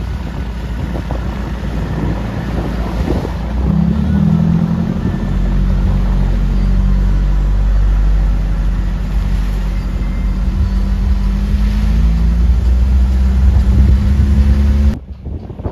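Off-road 4x4's engine running hard, a loud steady drone whose pitch climbs a little toward the end, before it cuts off abruptly.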